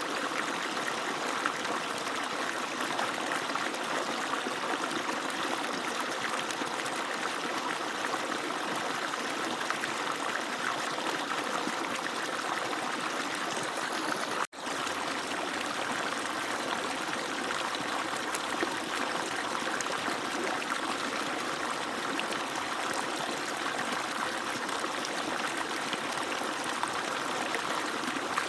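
Steady rushing and splashing of water pouring from an agricultural irrigation pump's outlet, cutting out for a split second about halfway through.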